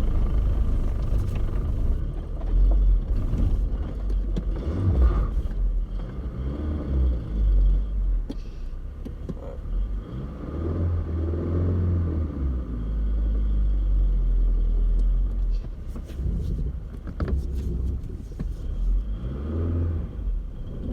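1996 Chevy S10 pickup's engine running with a low rumble, revving up and settling back several times, heard from the floor of the cab.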